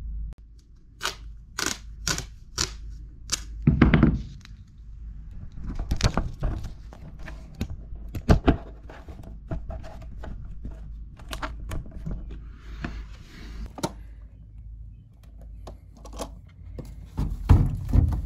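A run of sharp clicks and knocks from hard objects being handled, with a louder thud about four seconds in, a brief scraping near the middle and heavier thumps near the end.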